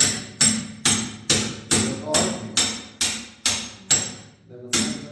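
Rhythmic knocking: sharp, ringing hammer-like strikes a little over twice a second, with a short break about four and a half seconds in.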